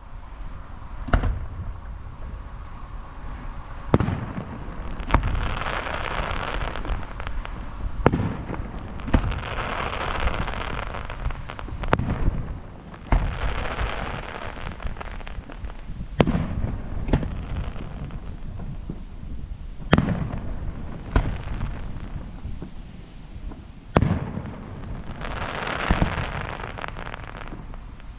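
Aerial fireworks: sharp booms of shells bursting about every four seconds, with long crackling spells after several of them.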